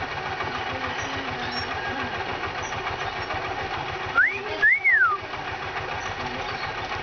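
A mynah bird gives a two-note wolf whistle, a quick upward sweep and then a longer rise-and-fall, about four seconds in, over steady background noise.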